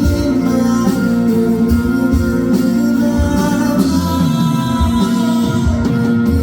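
A live band playing a song with guitars and a steady drum beat, and a singing voice over the top.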